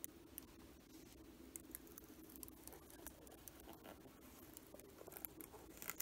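Faint crackle and small scattered ticks of thin protective plastic film being peeled off a brushed-metal badge plate.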